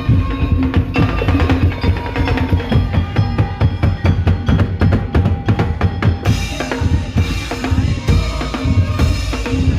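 Madurese ul-daul (tong-tong) percussion ensemble playing a fast, loud beat: heavy bass drums and snare-like strikes under ringing pitched notes. The sound turns brighter and fuller about six seconds in.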